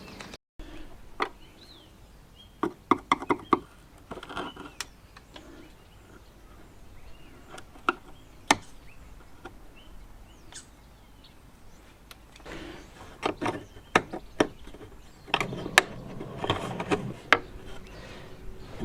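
Hand tools and metal fittings being worked while a car's air vent is taken out: scattered sharp clicks and knocks, busiest about three seconds in and again from about thirteen to seventeen seconds, over a low steady background noise.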